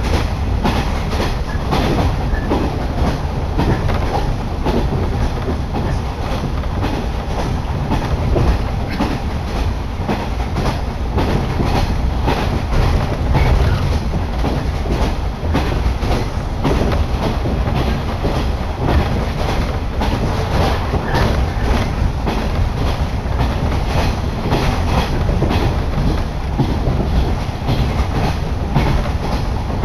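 Electric local train running at speed, heard from inside the carriage: a steady rumble from the wheels and running gear, with a continual clickety-clack of the wheels passing over rail joints.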